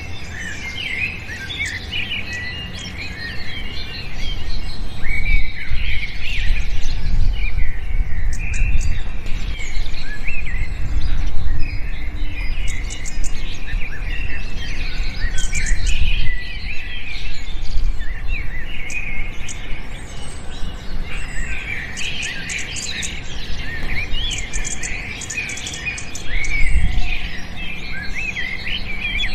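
A flock of small birds chirping and twittering, many short overlapping calls and trills, with a steady low rumble underneath.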